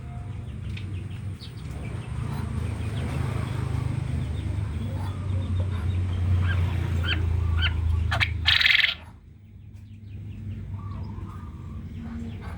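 Quail giving short, sharp chattering calls over a steady low rumble, with one louder, harsher half-second burst about two-thirds of the way through.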